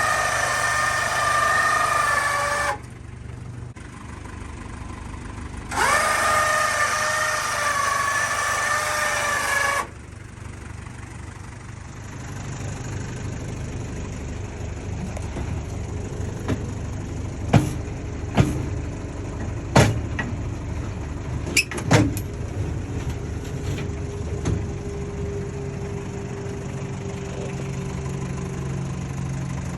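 The fire truck's siren sounds twice as a loud, steady tone, each about four seconds long. Then the truck's R2 diesel engine idles, with several sharp clicks or knocks midway.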